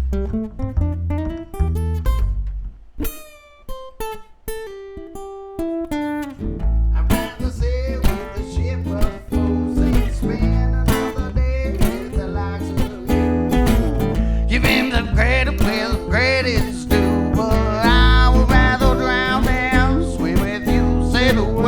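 Live band playing a song's instrumental intro: acoustic guitar strumming over bass, thinning to a few sparse picked notes for several seconds, then the full band coming back in about seven seconds in, with a wavering lead melody on top in the second half.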